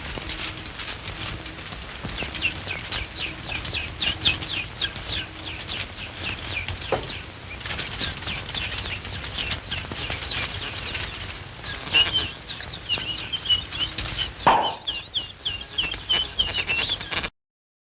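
Bird chirping on an early sound-film soundtrack: a rapid run of short, high, falling chirps over steady film hiss, quickening and more regular in the last few seconds before the sound cuts off.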